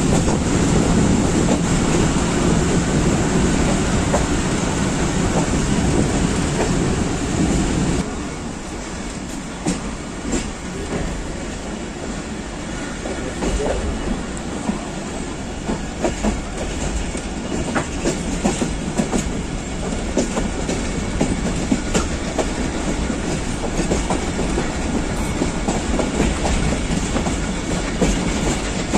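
Pakistan Express passenger coach running at speed, heard through its open door: a steady rumble and rattle with the clickety-clack of wheels over rail joints. About eight seconds in the overall noise drops and sharp, irregular clicks stand out more.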